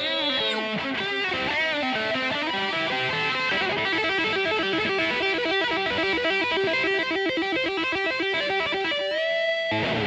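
Electric guitar solo: fast runs of notes with bends, then a rapid repeated figure, ending on a held note that slides up near the end.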